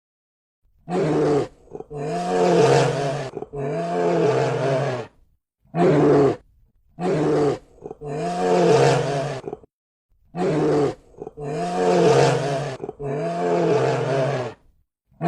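A large animal's call: a short call followed by two longer drawn-out ones, the same sequence sounding three times with short pauses between.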